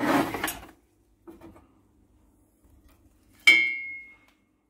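Metal fireplace hardware being handled: a short scrape at the start, a few light knocks, then a single sharp metallic clank about three and a half seconds in that rings briefly and fades.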